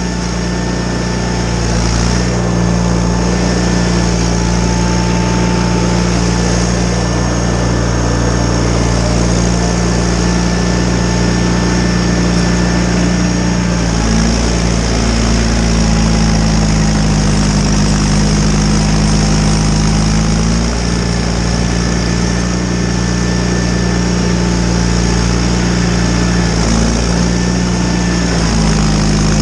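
John Deere 318 garden tractor's engine running steadily while driving a Model 49 snowblower, its pitch stepping up and down a few times.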